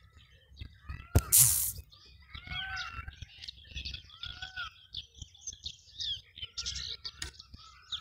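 A sharp click and a short rush of noise a little after a second in, then many birds chirping, with short overlapping arched calls.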